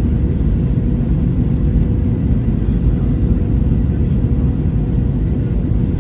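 Steady low rumble of an Airbus A321-200 jet airliner heard from inside the economy cabin, with a faint steady tone running through it.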